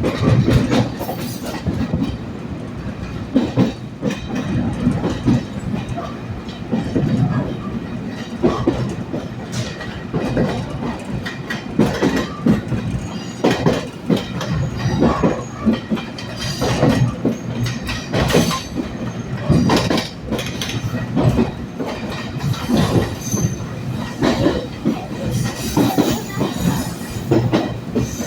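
Electric commuter train running on the track, its wheels clattering over rail joints in a continuing series of knocks over a steady low rumble.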